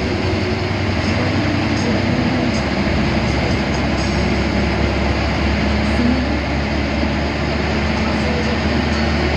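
Steady cabin noise of a moving air-conditioned bus: a low engine hum under constant road and wind noise.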